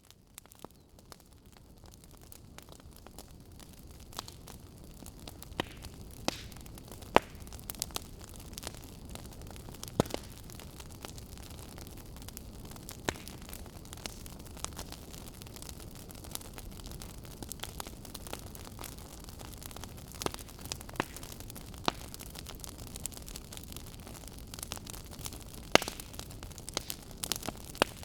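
Fireplace fire crackling, with irregular sharp snaps and a few louder pops over a steady low hiss. It fades in over the first few seconds.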